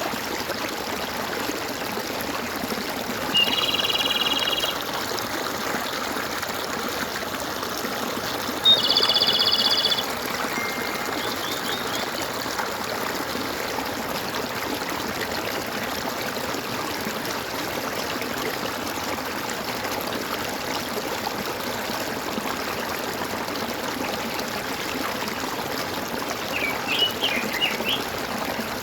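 Water trickling and gurgling steadily in a stream, with birds calling over it: two loud buzzy trills of about a second each, around four and nine seconds in, and a few quick chirps near the end.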